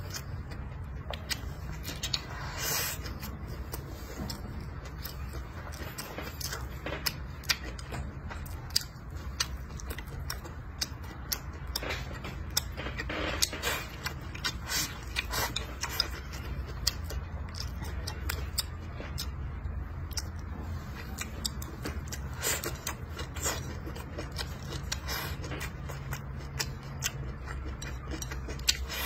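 Close-up chewing and eating sounds as a man eats a stir-fry of pork belly, chilies and cabbage with rice, with many short irregular clicks over a low steady hum.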